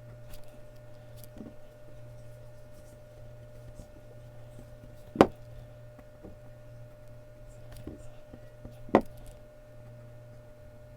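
Mechanical pencil scratching faintly on Bristol paper as it draws, over a steady low hum, with two sharp clicks about five and nine seconds in.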